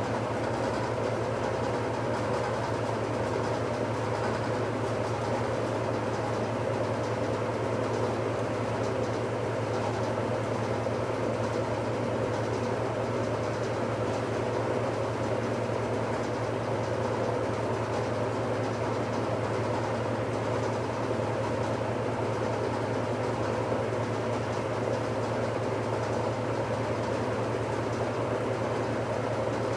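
1969 Westinghouse washing machine spinning steadily in its final spin, with an even motor hum and a drum whir that do not change.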